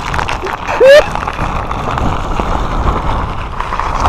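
Typhoon-force wind buffeting the phone's microphone, a steady rushing noise with heavy low rumble. About a second in, a short rising tone cuts through, the loudest moment.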